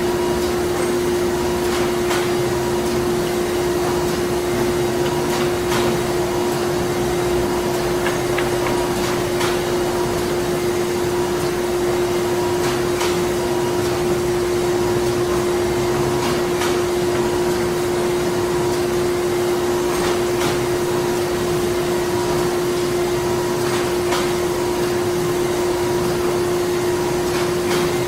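Printing plant ambience: a steady industrial machine hum with one strong held tone, and faint clicks every few seconds.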